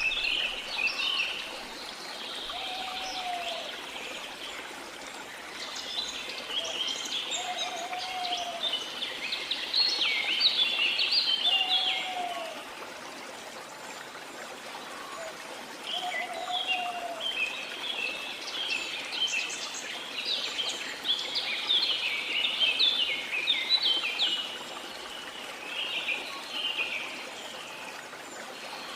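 Many small songbirds chirping and twittering in two long busy bouts, with a short, low, arched call repeating every few seconds, over a steady wash of water.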